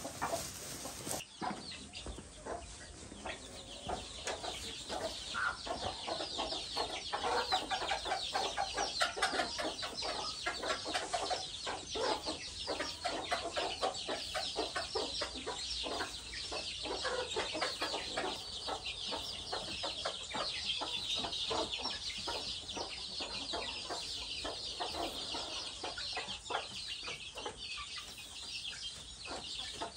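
A flock of chickens clucking and calling, many short calls overlapping without a break.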